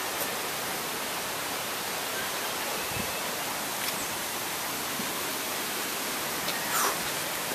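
Steady, even hiss of rain falling in the rain forest, with one brief louder sound near the end.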